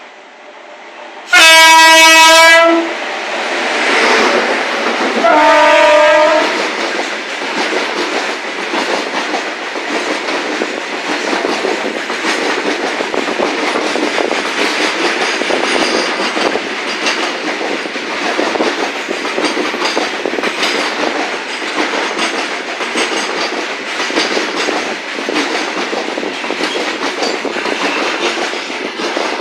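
WAG-9 electric locomotive's horn sounding two blasts, the first very loud and just over a second long, the second about four seconds later. Then the freight wagons roll past with a steady clatter of wheels on the rails.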